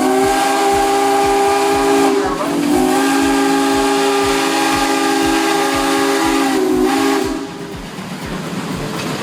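Case 110 HP steam traction engine's whistle blowing a chord of several pitches in two long blasts, the first ending about two seconds in and the second about seven seconds in. Under both runs a regular low beat about four times a second.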